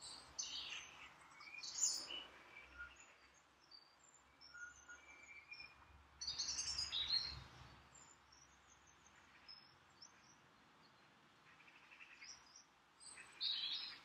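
Small birds chirping and singing, faint, in quick runs of short high notes.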